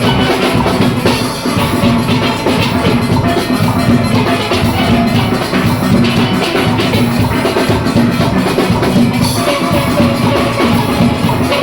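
A steel orchestra playing live: many steelpans ringing out a fast, dense melody and chords over a driving drum-kit and percussion rhythm section.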